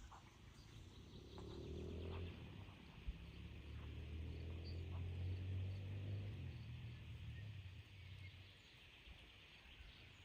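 Forest ambience: faint bird chirps over a low rumble that swells through the middle and then fades, with a few soft clicks near the start.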